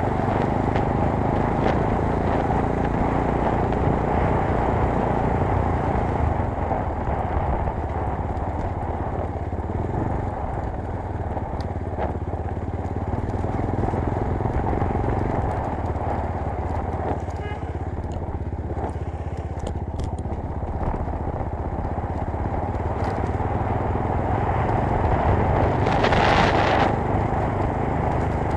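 Chinese GX-R 250S 250 cc motorcycle running steadily under load during a top-speed run, mixed with a continuous rush of noise. A brief louder rush comes near the end.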